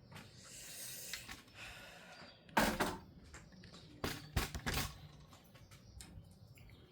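Rustling, then a loud knock and a quick cluster of knocks a little later, as household objects are handled and set down.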